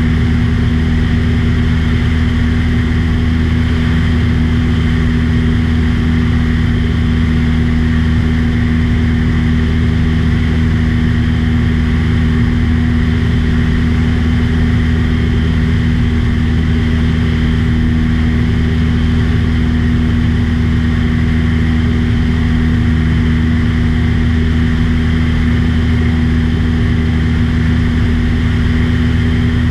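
Steady, even-pitched drone of an aircraft's engine and propeller in level flight, heard from on board.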